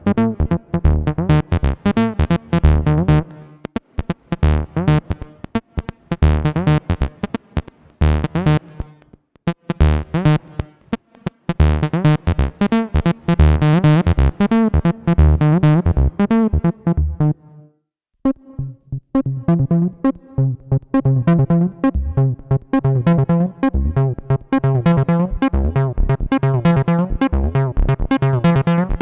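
Behringer TD-3-MO, a TB-303-style analog bass synthesizer, playing a fast repeating acid bassline sequence of short pitched notes. About two-thirds of the way through it stops for a second, then a new pattern starts.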